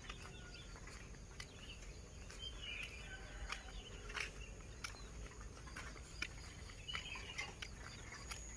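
Birds chirping in short calls a few times over a faint steady hiss, with scattered light clicks.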